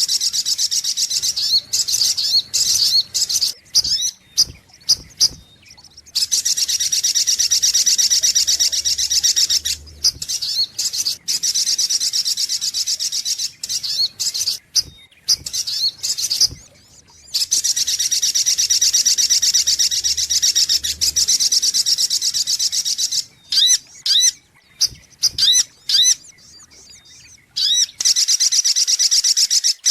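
Sogok ontong bird song played as a lure call: long bouts of rapid, high-pitched trilling, broken by stretches of short separate chirps.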